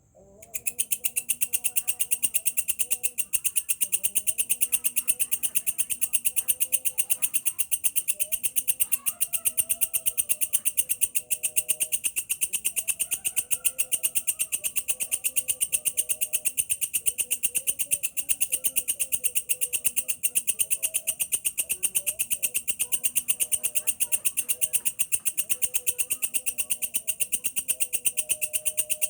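Walang kecek katydid stridulating: a fast, steady, high-pitched train of rattling pulses that starts about half a second in.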